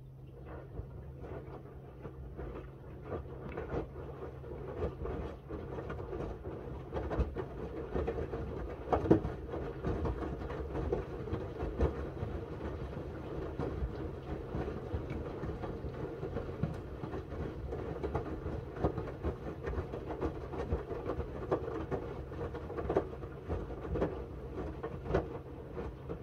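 Miele W1 front-loading washing machine turning its drum during a wash: wet linen bedding tumbling and sloshing with irregular soft knocks over a steady motor hum.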